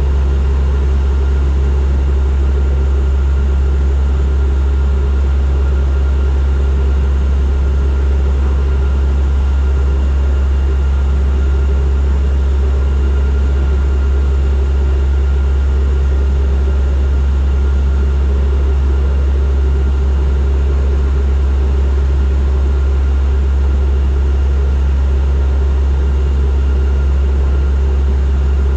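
Turboprop airliner's engines and propellers running steadily in flight, a loud constant low drone with a fainter steady whine above it.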